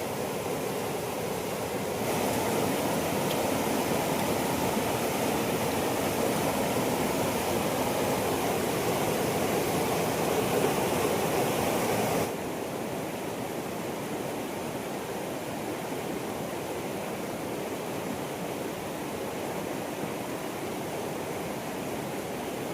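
Steady rushing noise like running water, louder for the first half and dropping abruptly to a lower level about twelve seconds in.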